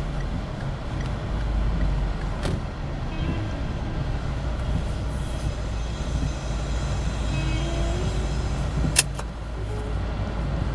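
Car running, a steady low engine and road rumble, with a single sharp click about nine seconds in.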